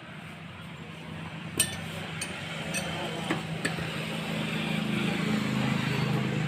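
Sharp metallic clinks of tools and engine parts being handled, about five in a couple of seconds, over a steady motorcycle engine hum that grows louder toward the end.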